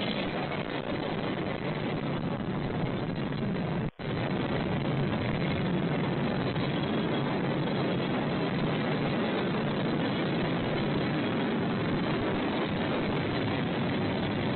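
Steady rolling rumble of a passing train, broken by a momentary dropout about four seconds in.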